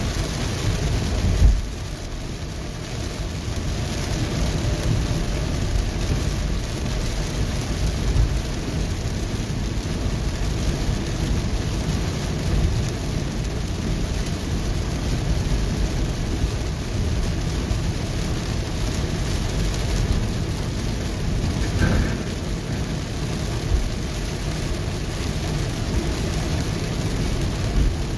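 Heavy rain falling on a car's roof and windshield, heard from inside the moving car, over a steady low rumble of the road. A sharp thump comes about a second and a half in.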